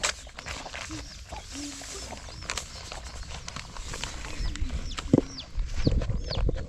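Domestic chickens clucking, with many short high chirping calls and a few low calls, and several knocks near the end.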